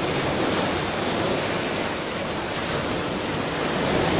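Ocean surf: waves washing onto a shore as a continuous rush, easing off slightly around the middle and swelling again near the end.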